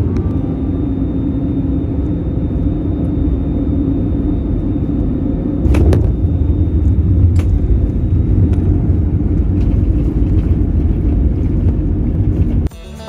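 Steady low rumble of an airliner's cabin and engines. A sharp thump comes about six seconds in, after which the rumble is louder.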